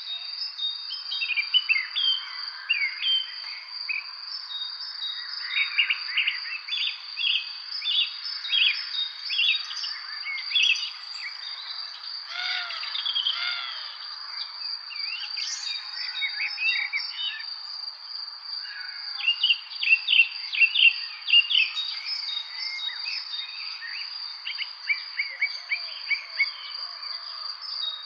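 Several songbirds chirping and singing in short, varied calls and trills. Beneath them runs a steady high-pitched insect trill.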